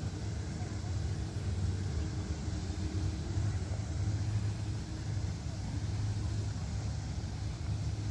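A steady low rumble or hum that holds level throughout.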